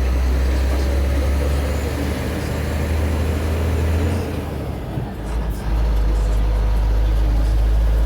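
Scania P124 truck's six-cylinder diesel engine running under way with a deep, steady drone; past the middle the drone falls away for about a second and a half, then comes back strong and steady.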